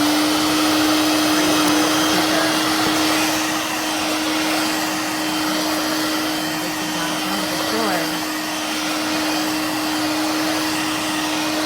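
Dirt Devil Vibe corded stick vacuum running: a steady motor whine over a loud rush of air.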